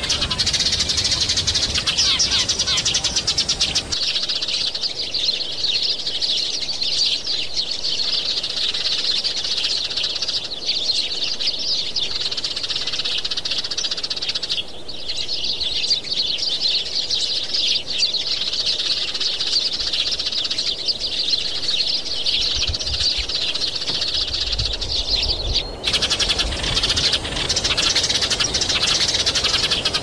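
Birds chirping in a dense, continuous stream of rapid high notes, easing briefly a few times before picking up again.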